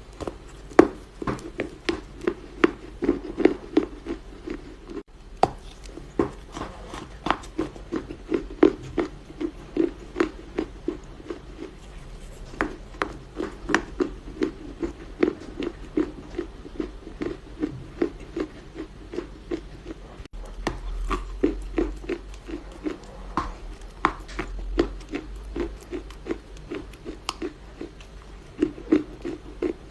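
Chunks of dry Chinese loess clay crunching, soft crisp crunches a few times a second, with abrupt breaks about five and twenty seconds in where one clip gives way to the next.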